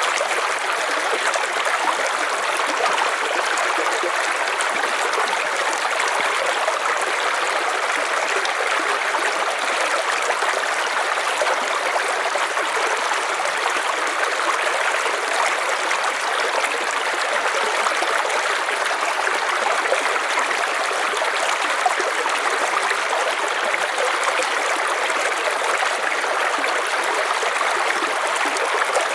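River water flowing steadily over stones, a continuous even rush.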